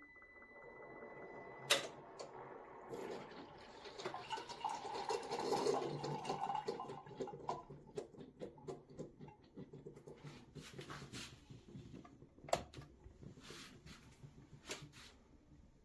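A steady electronic tone cuts off with a sharp click about two seconds in. Then a Ninja DualBrew coffee maker's pump runs with a fast rhythmic chugging and watery gurgling, loudest a few seconds later, with a few sharp clicks near the end.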